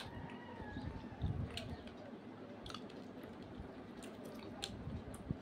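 Close-up chewing and soft wet eating sounds of people eating puri and meat gravy by hand, with scattered small clicks and a soft thump about a second in.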